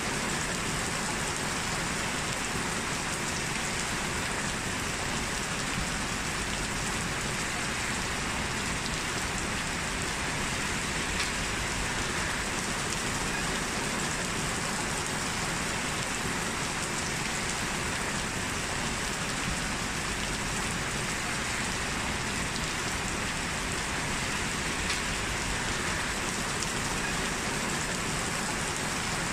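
Steady rain falling and pattering on surfaces, with an occasional sharper single drop.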